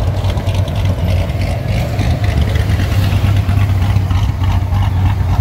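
C7 Corvette Stingray's 6.2-litre LT1 V8 idling loudly and unevenly on a large aftermarket camshaft, through a Z06 exhaust.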